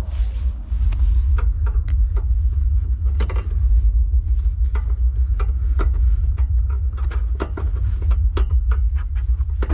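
Irregular clicks and knocks of parts and wiring being handled during car amplifier installation work, over a steady low rumble.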